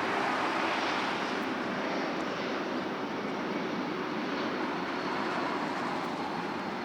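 Jet airliner's engines heard as a steady rushing noise with a low hum, slowly getting quieter as the plane moves away.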